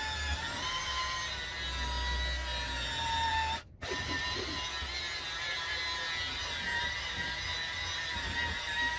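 A handheld power tool's motor running with a steady whine that drifts slightly in pitch, broken off briefly about four seconds in.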